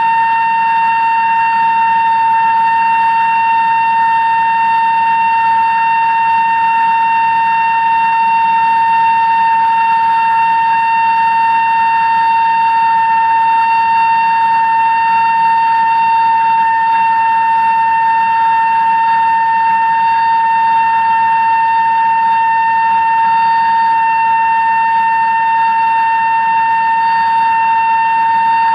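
A CNC machine drilling through 316 stainless steel with a 2-inch Kennametal drill: a steady, high-pitched whine with overtones that holds at one pitch and level throughout.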